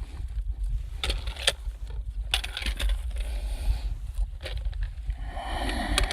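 Wind rumbling on the microphone, with scattered scrapes and knocks throughout and a rustling hiss building near the end.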